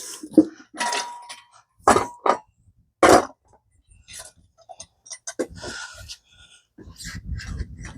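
Metal clanks and knocks from working a manual tire changer to break mini bike tire beads: four sharp loud knocks in the first few seconds, one with a brief metallic ring, then lighter clicks and a low rumble near the end.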